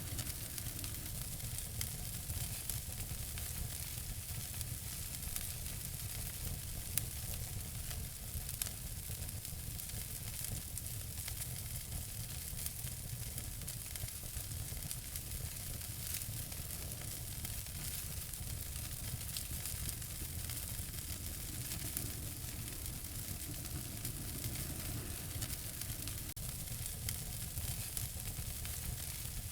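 Wood fire in a fireplace crackling, a steady hiss with many small snaps and an occasional louder pop.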